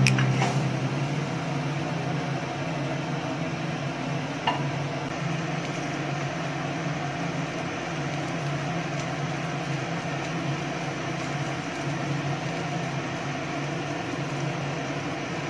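Steady low hum with an even hiss over it as an omelette cooks in a frying pan on the stove, with one light tap about four and a half seconds in.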